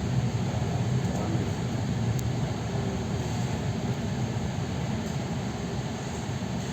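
Steady low rumble of an electric suburban train running along the line, heard from inside the carriage: wheels on rails and running gear, with a faint tick or two.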